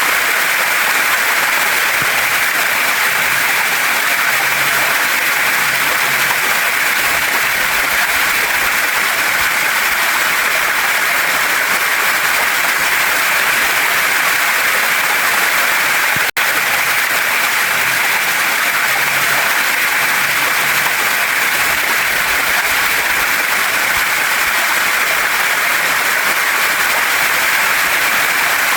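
Steady rushing of a waterfall and stream pouring over rocks, a dense even hiss of water with no change in flow. It cuts out for a split second about sixteen seconds in.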